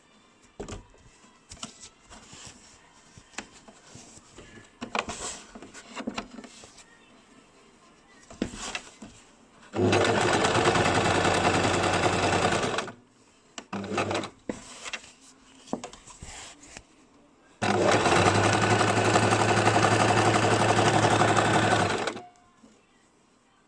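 Basic electric sewing machine stitching in two steady runs of about three and four and a half seconds, with a short spurt between them. Soft clicks and handling sounds come before the first run.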